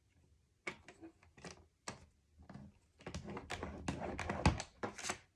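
Cardstock being handled and scored on a scoring board: a run of quick taps and paper rustles, sparse at first and thickening in the second half, with one dull thump near the end.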